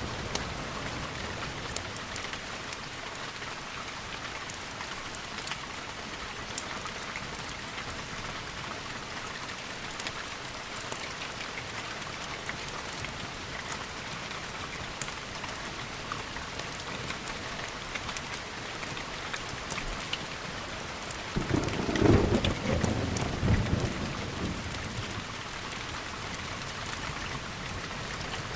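Steady rain with a fine patter of drops. About 21 seconds in, a clap of thunder rumbles for around three seconds, then the rain alone carries on.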